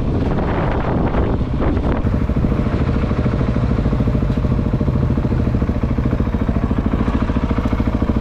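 Motorcycle engine idling with an even, fast pulse. Wind buffets the microphone for the first two seconds.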